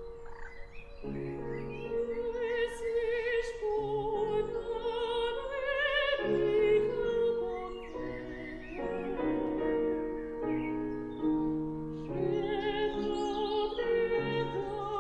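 Operatic singing voice with a wide vibrato, carrying a slow melodic line over held accompanying chords.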